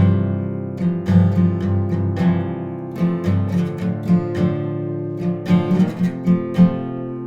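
Acoustic guitar strummed, chords ringing in a steady rhythm during an instrumental passage between sung lines.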